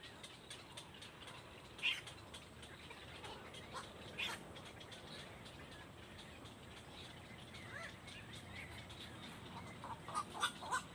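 Birds calling in short chirps, a few scattered calls and then a quick run of chirps near the end.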